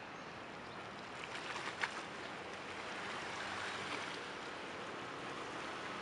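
Steady outdoor ambience: an even wash of noise with a few faint ticks about a second in, growing slightly louder toward the end.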